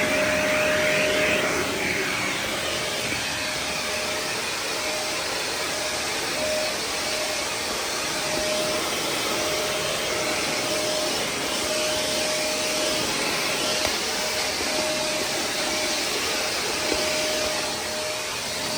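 Vacuum cleaner running steadily while sucking up dog hair: a constant rushing noise with a thin whine that keeps cutting out briefly, about once a second.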